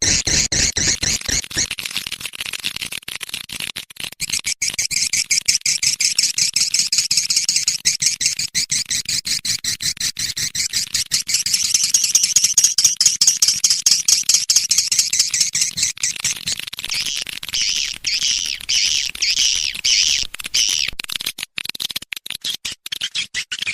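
Swiftlet call track used to lure swiftlets into a nesting house: a fast, high-pitched chattering of swiftlet calls. Near the end it breaks into a row of about six separate chirps, each about half a second apart.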